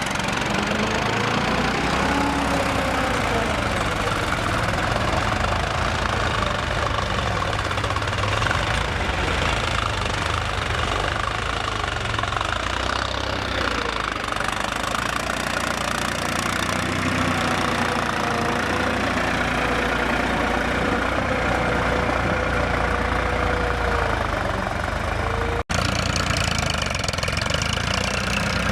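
Heavy diesel vehicle engine running, its revs rising and falling, with a brief cut-out near the end.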